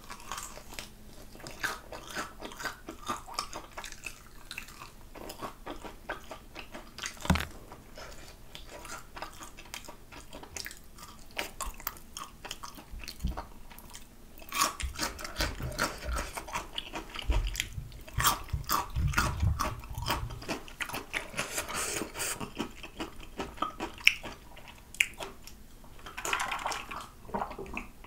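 Close-up eating of a crispy fried chicken drumstick: bites into the coating and chewing, a scatter of short crackles that grows busier about halfway through.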